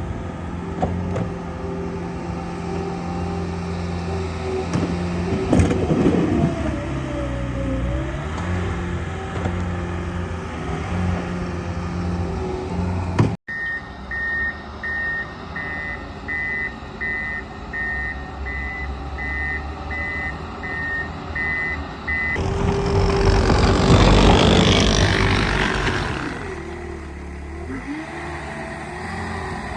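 A heavy vehicle's engine runs steadily, with changes in pitch about halfway through. After a sudden break, a reversing alarm beeps about once a second under the engine, then a loud rushing noise swells and fades over a few seconds.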